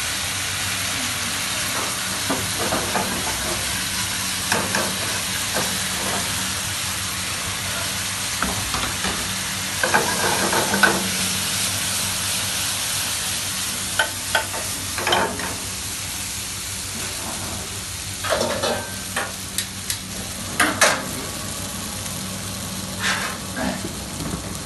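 Chicken in sauce sizzling in a wok over a high gas flame, a steady hiss, with a metal ladle scraping and clattering against the pan now and then, more often in the second half.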